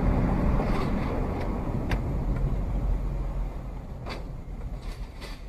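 Road vehicle noise: a steady low rumble with a few sharp clicks, fading toward the end.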